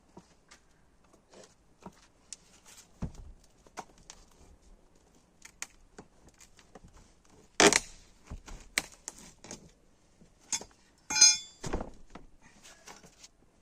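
Scattered clicks and knocks of hand work on an old door, with two loud sharp thuds about eight and twelve seconds in and a short ringing metallic clink just before the second.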